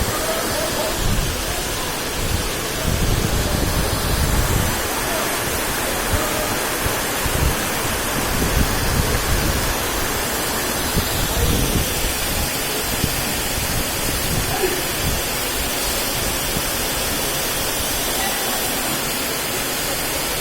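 Heavy rain pouring steadily. Irregular low rumbling surges come and go through roughly the first half.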